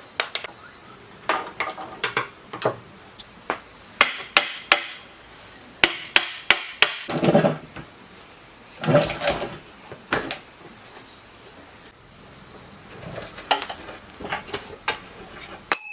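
Irregular hammer taps and metallic clinks of hand tools working on a generator's metal parts during disassembly, coming in short clusters with pauses between.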